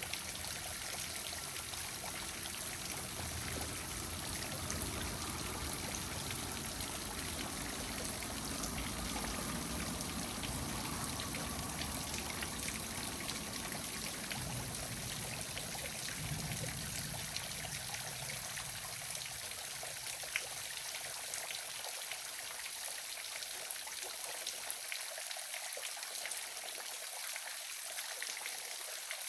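Small waterfall splashing and rushing steadily, with fine drips and splashes through it. A low rumble underneath fades out about twenty seconds in.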